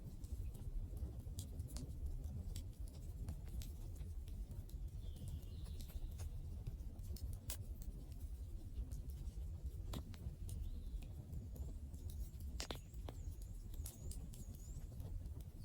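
Wood campfire crackling: scattered sharp pops and snaps at uneven intervals over a low, steady rumble from the burning fire.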